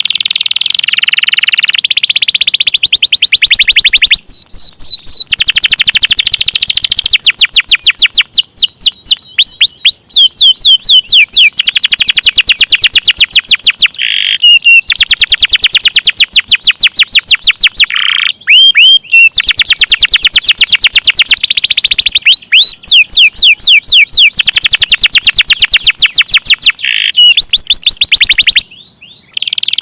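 Domestic canary singing long, rapid rolls: trills of many quick repeated high notes, loud and nearly continuous, broken by a few short pauses.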